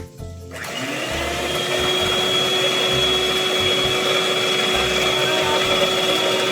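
Electric mixer switched on about half a second in, spinning up with a rising whine, then running steadily while beating butter, eggs, sugar and salt for dough.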